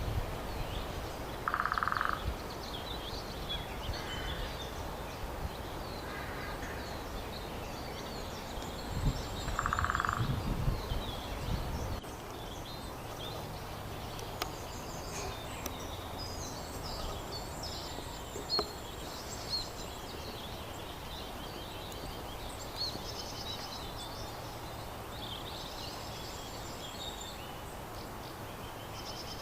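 Small woodland birds chirping and singing, many short high calls throughout, with two short lower calls about 2 and 10 seconds in. A low rumble underneath cuts off suddenly about 12 seconds in.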